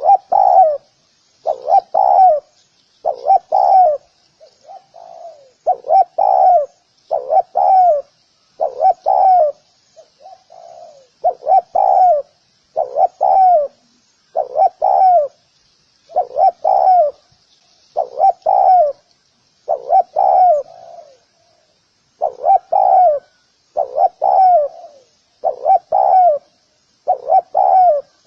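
Spotted dove cooing over and over, about one note a second, in runs broken by a few softer notes. A faint high hiss lies under it.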